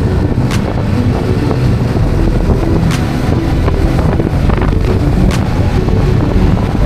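Motorcycle on the move: steady wind rush buffeting the microphone over a low engine rumble, with a few sharp clicks.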